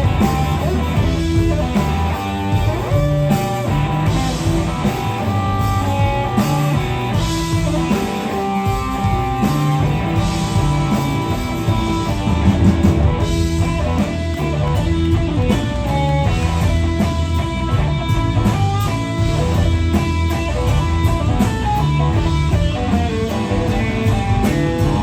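Live blues-rock band playing an instrumental passage: an electric guitar lead line over bass and drums.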